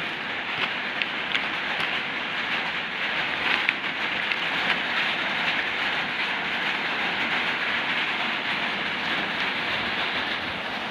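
Continuous light rattling and clicking of bird leg rings being handled and packed, with a few sharper clicks in the first few seconds.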